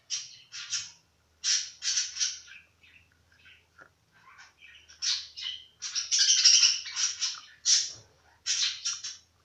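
Small bird chirping in a quick run of short, high calls, some louder and denser about six seconds in.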